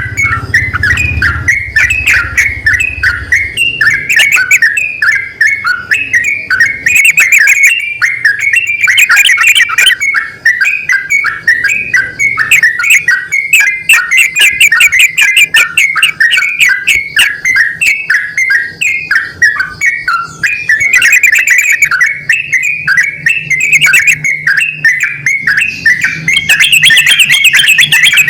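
Yellow-vented bulbuls, a male and a female, calling back and forth in a continuous run of quick, varied chattering notes.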